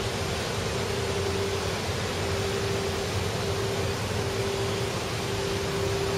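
A motor running steadily: an even hiss over a constant hum with one steady tone.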